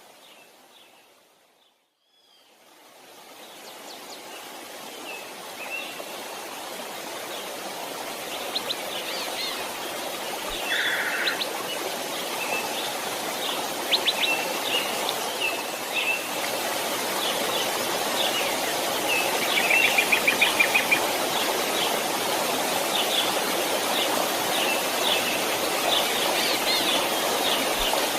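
Flowing creek water with small birds chirping. It fades out to silence about two seconds in, then fades back in and builds, with scattered high chirps and a short, rapid trill about twenty seconds in.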